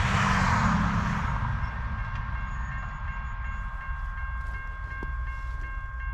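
Freight train approaching in the distance: a steady low rumble under steady high ringing tones from the grade-crossing bells. A road vehicle's passing whoosh swells and fades over the first second or so.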